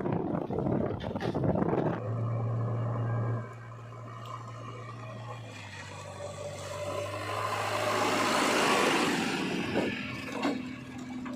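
Diesel engine of heavy earth-moving machinery running under work, its note and load shifting. There is a dense rush of noise in the first two seconds, then a steady low engine hum, and the engine swells again near the end.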